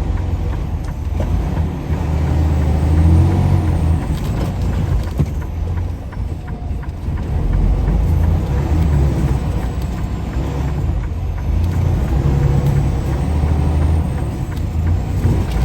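Semi-truck's diesel engine running under light load as the truck creeps along a narrow road, a steady low rumble that swells and eases.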